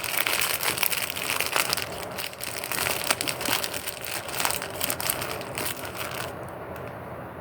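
Crinkling and crunching close to the microphone: a dense run of sharp crackles that stops about six seconds in.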